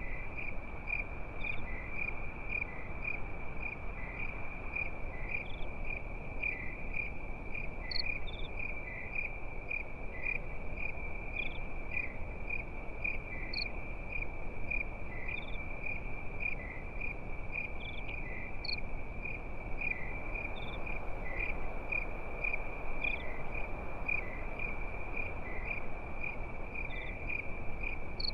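Crickets chirping in a fast, even, unbroken rhythm, with a second, higher chirp repeating every couple of seconds, over a low, steady background noise.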